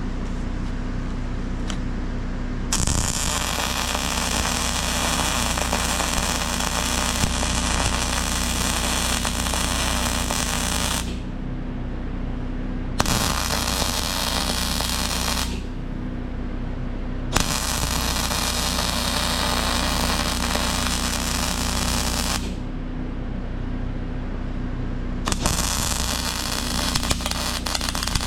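Electric arc welding: the arc crackles and hisses in four runs of several seconds each, starting about three seconds in and broken by short pauses. A steady low hum runs underneath.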